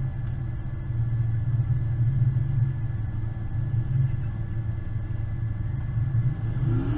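Off-road vehicle's engine running steadily, a low rumble that holds an even pace.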